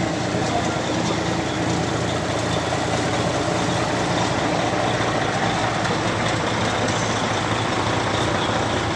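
Heavy truck engine idling steadily, a low even rumble with no revving.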